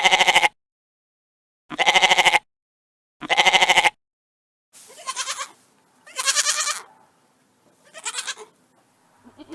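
Goats bleating in loud, wavering calls: three in the first four seconds, then, after a cut to another recording with faint background hiss, several more spaced about a second apart.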